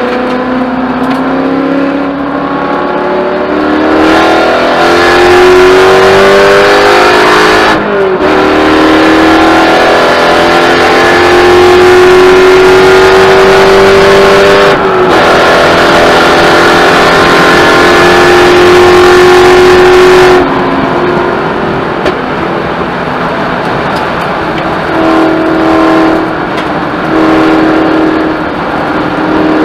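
Spec Corvette's V8 engine heard from inside the car at full throttle, rising in pitch through the gears with upshifts about 8 and 15 seconds in. It then holds steady high revs, backs off about 20 seconds in, and comes on and off the throttle near the end.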